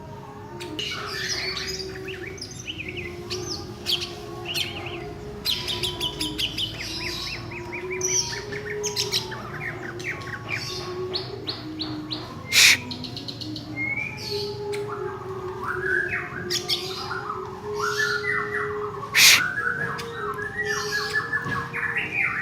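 Cucak ijo (green leafbird) singing a varied run of chirps, rapid trills and rising whistles, with two sharp loud notes, one about halfway through and one near the end.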